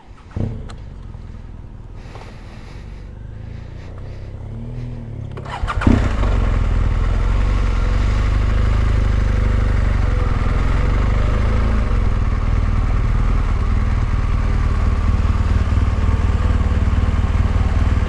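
Motorcycle engine running, fairly quiet for the first few seconds, then suddenly much louder from about six seconds in and holding a steady low rumble.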